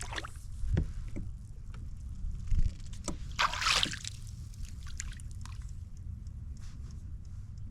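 Water splashing and dripping around a kayak as it is moved through a shallow creek, with a louder splash about three and a half seconds in and a few light knocks on the hull.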